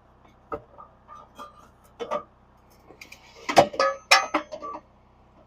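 Metal parts and tools being handled: a few scattered clinks and knocks, loudest in a cluster about three and a half seconds in, one leaving a brief high metallic ring.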